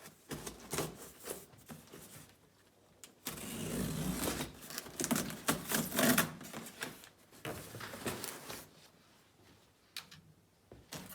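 Packaging being ripped and pulled off a parcel: irregular rasping, crackling tears with clicks and knocks, loudest and most continuous from about three to seven and a half seconds in.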